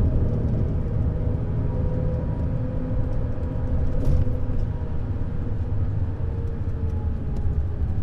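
Neoplan Skyliner N 1122/3C double-decker coach under way, its diesel engine droning steadily over road rumble, with a short click about four seconds in.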